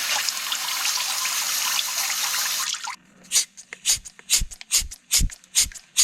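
A steady hiss, like rushing fluid or spray, cuts off suddenly about three seconds in. It is followed by a run of about seven sharp knocks, roughly two a second.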